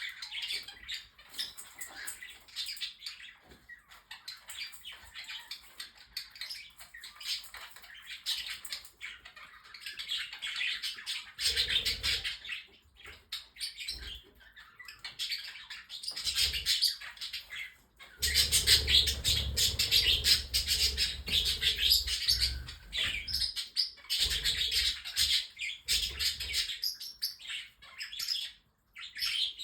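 A mixed flock of pet budgies with cockatiels and parrotlets chirping and warbling over one another in dense, continuous chatter. It grows louder and busier about twelve seconds in, and again from about eighteen to twenty-three seconds.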